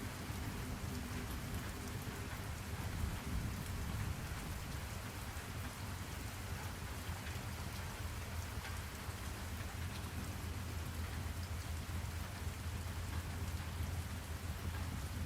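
Steady rain-sound ambience used as study white noise: an even hiss of rain with scattered drop ticks over a constant low rumble.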